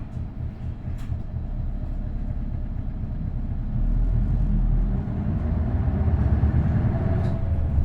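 Isuzu Erga city bus's V8 diesel engine and drivetrain running under way, heard from inside the cabin; the engine noise grows louder about four seconds in as the bus pulls harder.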